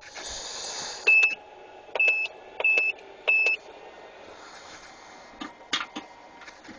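Four short, high electronic beeps between about one and three and a half seconds in, each starting with a click. A short hiss comes just before them.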